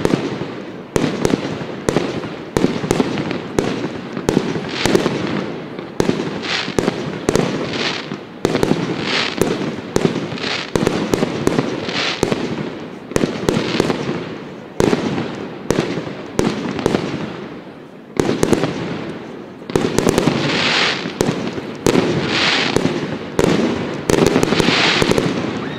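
Fireworks display: a rapid, continuous run of shell bursts and bangs, several a second, many followed by a crackling hiss of about a second. The hissing crackle is strongest over the last few seconds.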